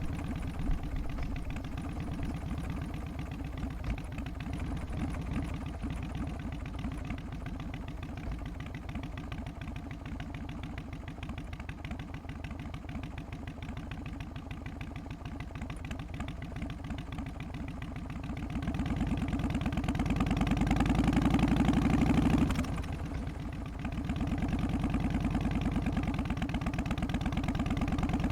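Harley-Davidson Softail's Twin Cam 88 V-twin engine idling with an even, loping three-beat rhythm. About nineteen seconds in, it gets louder for a few seconds, drops suddenly, then carries on running a little louder than before.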